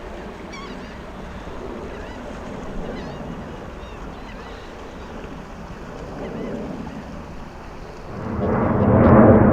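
Jet airliner engine noise at the airport, steady and moderate at first, then swelling sharply and loudly about eight seconds in as the jet passes close on its takeoff.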